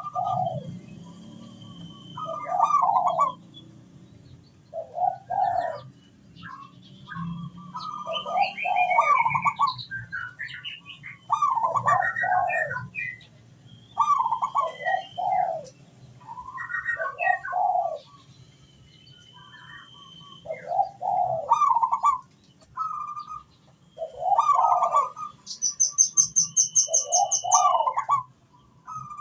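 Zebra dove cooing its rhythmic song in repeated short phrases with brief pauses between them. Small birds chirp faintly higher up, with a fast high trill near the end.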